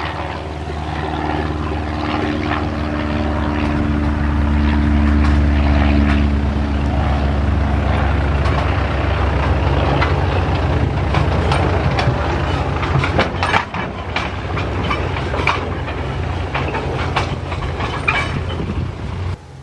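Light aircraft's piston engine and propeller running loud and steady for several seconds, then giving way to a rushing noise broken by many short crackles. It cuts off abruptly near the end.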